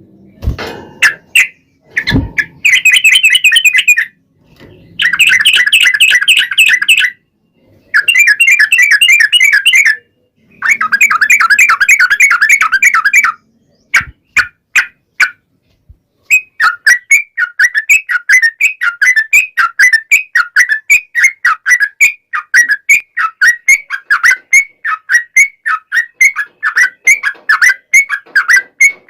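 Yellow-vented bulbul (trucuk) singing a rapid chattering song in long bursts of about two seconds each, with short gaps. From about halfway through, the song turns into a steady run of quick repeated phrases, about four a second. A couple of dull thumps come right at the start.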